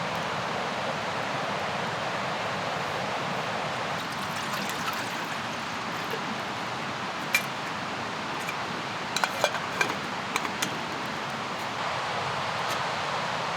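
Mountain river rushing steadily. One sharp click about halfway through, then a quick cluster of clicks a couple of seconds later.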